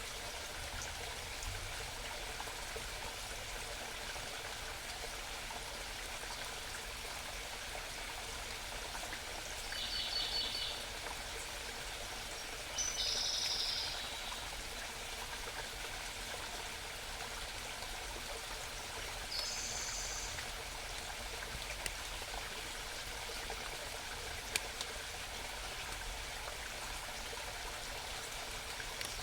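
Steady babble of a small mountain stream, with three short high-pitched bird calls rising over it about ten, thirteen and twenty seconds in.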